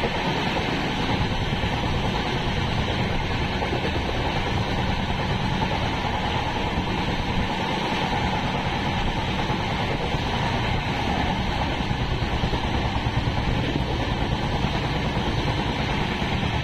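Express passenger train running along the track, heard from on board: a steady, dense rumble and rattle of the moving coaches.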